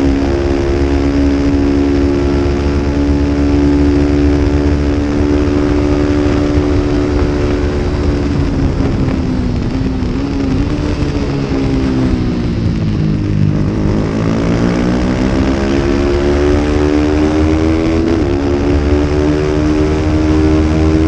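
A 250-class road-racing motorcycle engine running hard at high revs with a steady pitch. About halfway through, the revs fall smoothly for several seconds and then climb back to full pitch as the bike accelerates again. A steady low rumble runs underneath.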